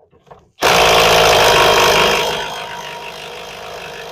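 A motor starts abruptly about half a second in and runs steadily, easing down in level after about two seconds.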